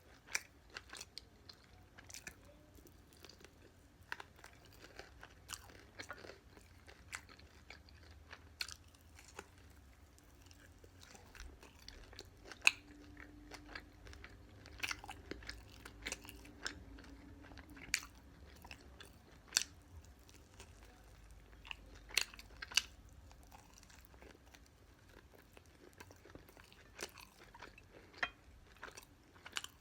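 Close-up chewing and crunching of fried BBQ chicken with a crisp coating, with irregular sharp crunches and bites throughout.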